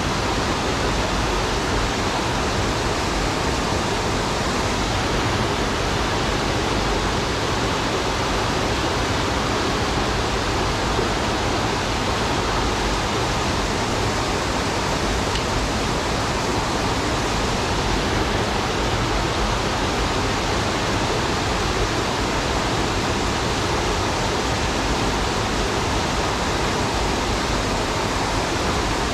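Mountain stream water rushing over rocks, a steady, unbroken roar.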